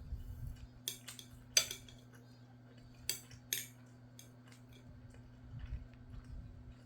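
Eating utensils knocking and clinking against a dish of rice and scrambled egg, a handful of sharp clinks with the loudest about a second and a half in, and duller handling sounds near the end, over a steady low electrical hum.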